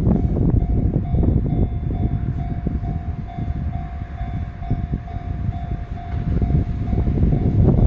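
A Sanyo Electric Railway train running through a level crossing, its wheels rumbling and clicking over the rail joints. The crossing's warning bell rings in a steady repeating pulse. The rumble eases in the middle and swells again near the end.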